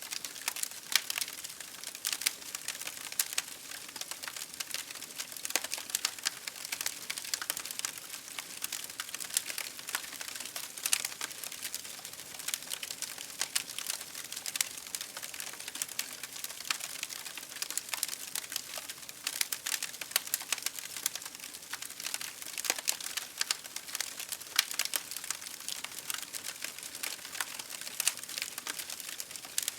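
Campfire crackling: a dense, irregular stream of small pops and snaps over a steady hiss, with a few sharper louder pops.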